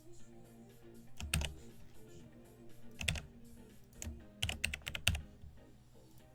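Computer keyboard keys clacking in a few scattered presses, each with a dull thud from the desk, over quiet background music.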